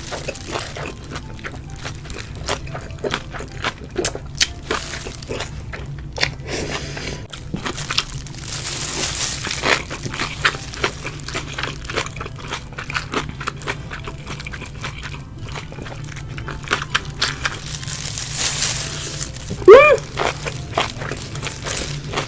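Close-miked eating sounds: chewing with many wet mouth clicks, and a few longer crunching or rustling stretches. Near the end comes a short hummed voice sound rising in pitch, the loudest moment.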